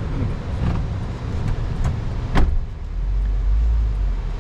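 Engine and road noise inside a car, a steady low rumble, with one sharp click about two and a half seconds in, after which the rumble grows heavier.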